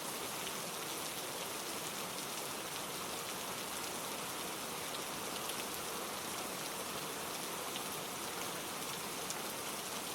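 Steady hiss of falling water, like rain, with a few faint scattered ticks.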